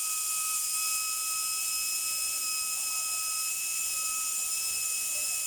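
A small high-speed motor running steadily with a high-pitched whine and hiss, likely an air-powered or electric workshop tool.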